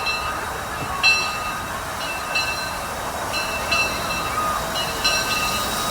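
Rail vehicle running, with short high-pitched metallic tones recurring about once a second over a steady rumble.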